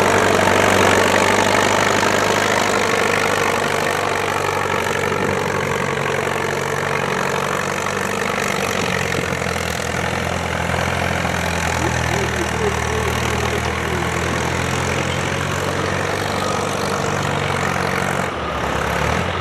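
Antique farm tractor engine running steadily, its tone shifting a little about eighteen seconds in.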